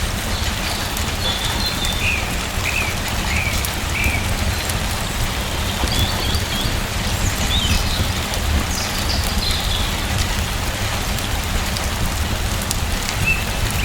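Steady rain falling, an even hiss over a deep low rumble. Short high chirps come in runs of three or four, a few seconds in and again near the end.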